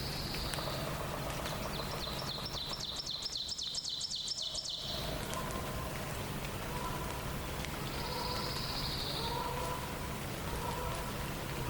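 Songbirds singing in a morning dawn chorus. One bird gives a rapid three-second run of repeated high, down-slurred notes, with shorter high phrases at the start and about two-thirds of the way through, over a steady hiss of background noise.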